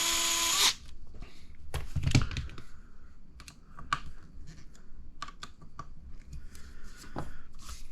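A small cordless power driver runs briefly and stops within the first second. Light clicks and taps of small plastic parts and screws being handled follow.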